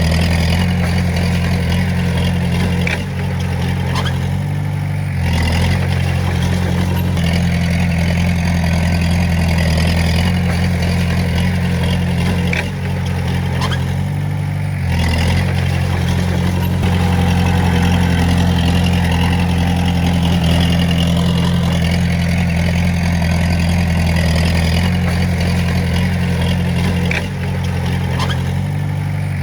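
Diesel engine of a Komatsu D20A bulldozer running steadily while working, its note dipping and changing briefly a few times as the load shifts.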